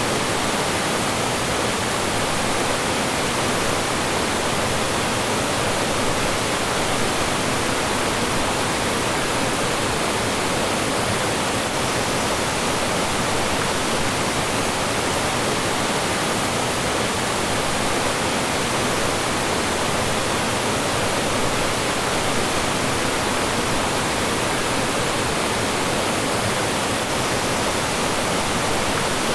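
Mountain stream rushing and splashing over rocks: a steady, even wash of falling water with no breaks.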